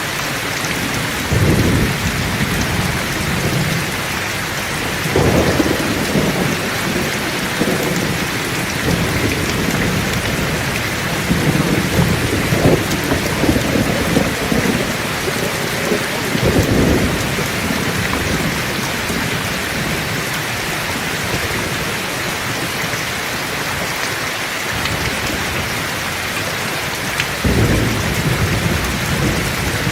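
Heavy rain falling steadily, with rolls of thunder swelling up now and again: about 1.5 seconds in, around 5 seconds, a longer spell from about 11 to 17 seconds, and again near the end.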